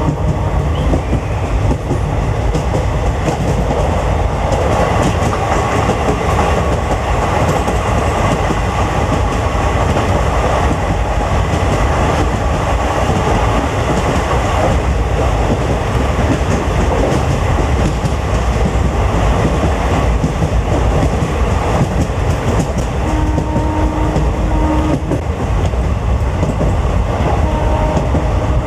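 Passenger train running steadily along the track, a continuous rumble from on board. Near the end a steady tone sounds twice, about two seconds each time.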